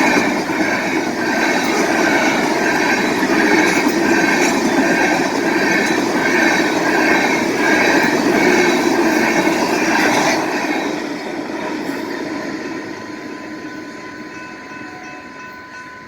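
Freight train rolling past at a grade crossing, wheels rumbling and clattering on the rails, with a crossing bell ringing steadily in an even repeating pattern. About ten seconds in, the train noise falls away as the end of the train passes, leaving the bell ringing.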